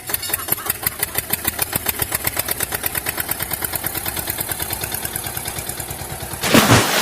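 Tractor engine running with a fast, even chug that quickens slightly. About six and a half seconds in, a short, loud whooshing burst cuts across it.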